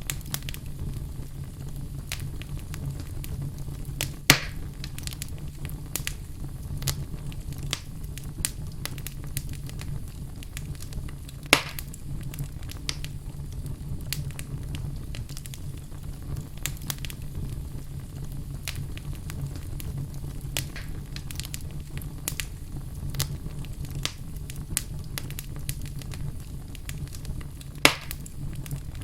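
Wood fire burning in a fireplace: a steady low rumble of flames with frequent sharp crackles, and three louder pops about four, eleven and a half, and twenty-eight seconds in.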